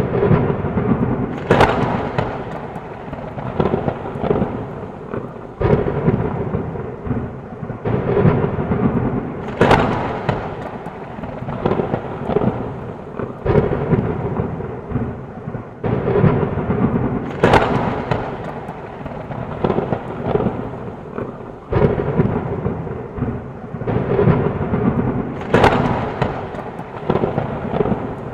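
Thunderstorm: steady heavy rain with thunder, sharp cracks recurring about every two seconds, each trailing into a rumble.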